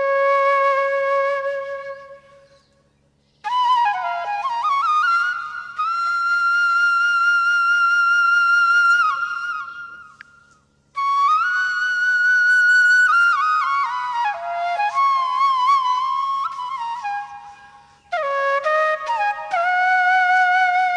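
Slow solo flute melody with sliding, wavering notes, played in long phrases with short breaths between them, three times.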